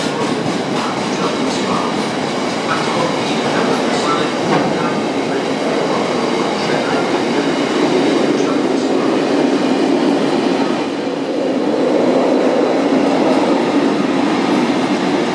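Freight train of bogie tank wagons passing at speed: a steady, loud rumble of wheels on rails, with occasional clicks as wheels cross rail joints.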